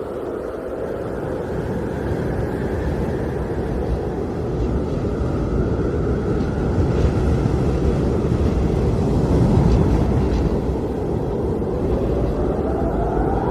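Blizzard wind blowing, a deep steady rushing that swells a little midway, with a faint howling tone that rises in pitch near the end.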